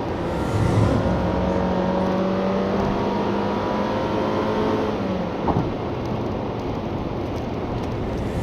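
Honda Freed's 1.5-litre petrol engine pulling the car along at road speed over steady road noise, its tone climbing slowly as it accelerates. About five seconds in the engine tone drops away, and a single short knock follows.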